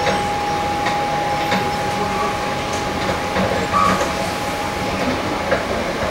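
Sydney Trains Tangara (T-set) electric train heard from inside the carriage while running. There is a steady rumble of wheels and body, a constant high whine that fades out about halfway through, and a few light clicks over the rails.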